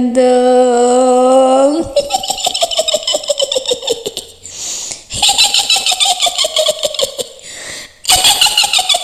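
A woman's witch voice draws out the word "gerandong?", then breaks into a high cackling witch laugh that falls in pitch. The cackle comes twice, with a breathy hiss between, and starts a third time near the end.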